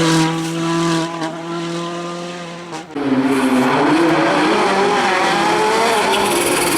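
Volkswagen Polo WRC rally car's 1.6-litre turbocharged four-cylinder engine holding a steady pitch that fades over the first three seconds. About three seconds in there is an abrupt change to a louder engine note that revs up and down.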